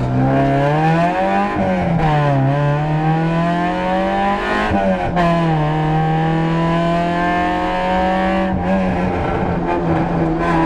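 Citroën Saxo VTS rally car's four-cylinder engine at full stage pace, heard from inside the cabin. It revs hard, its pitch climbing and then dropping sharply at each shift or lift, with clear dips near the start, about five seconds in, and again near eight and a half seconds.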